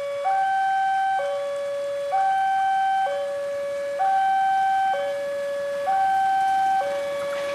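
Railway level crossing warning alarm sounding, a higher and a lower tone alternating about once a second in a steady repeating pattern: the signal that a train is approaching.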